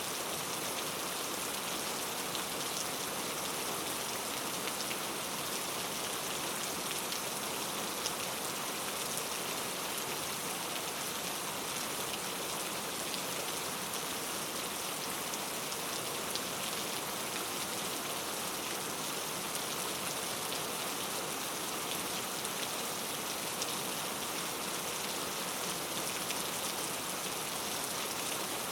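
Steady rainfall in a rainforest: an even hiss of rain with scattered drop ticks.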